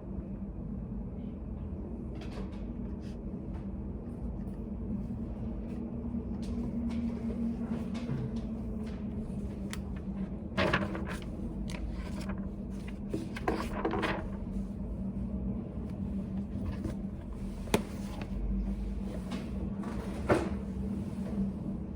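Study cafe room ambience: a steady low hum with a hush of background noise, broken by a few small clicks and knocks of things being handled, the loudest about halfway through and near the end.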